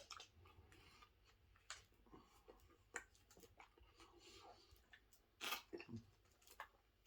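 Faint chewing of a Subway footlong sandwich: wet mouth sounds with scattered crunches and clicks, and a louder burst about five and a half seconds in.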